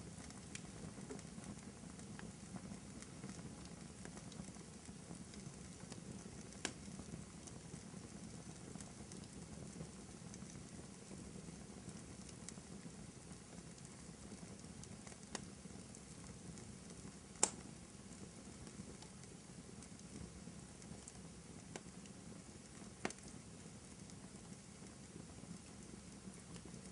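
Fireplace crackling: a soft steady rumble of burning logs with scattered sharp pops, the loudest about two-thirds of the way through.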